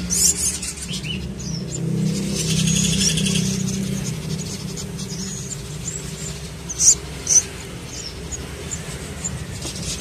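Nestling birds begging with thin, high chirps while being hand-fed, with two louder sharp calls close together about seven seconds in, over a low steady hum.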